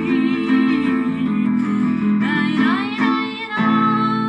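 Acoustic guitar playing the closing chords of a Russian folk song, with a short sliding voice-like line about two seconds in and a final chord struck near the end.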